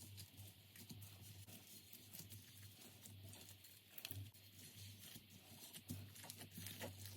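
Faint, irregular sticky clicks and crackles of slime being pressed and stretched by hand, over a low steady hum.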